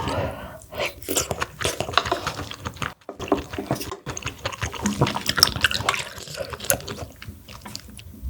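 Close-up eating sounds of a soupy mussel dish: wet slurping and mouth noises with many small irregular clicks. The sound cuts out for a moment about three seconds in and again a second later.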